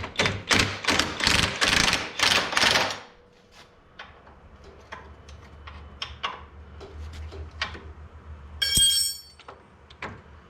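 Metal hand tools clattering and clinking, busy for the first three seconds and then in scattered light clicks, with one sharp ringing metallic clang a little before the end as a wrench strikes metal.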